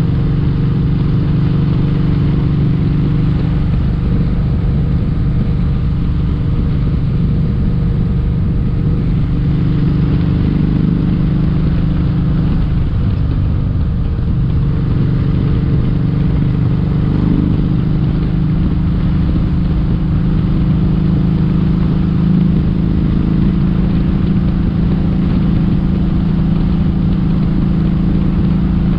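Kawasaki Vulcan 1700 Vaquero's V-twin engine running at a steady cruising speed, over a steady rush of noise.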